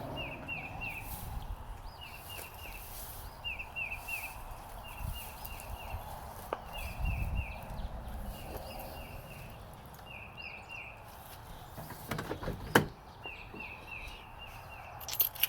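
A bird calling over and over: short runs of three or four quick chirps about every second and a half, over a low rumble. A single sharp knock about twelve seconds in.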